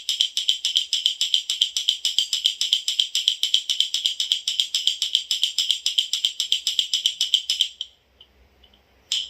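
Baby's toy rattle (jhunjhuna) shaken rapidly and steadily, a fast even stream of bright clicking jingles that stops about eight seconds in, then one short shake near the end.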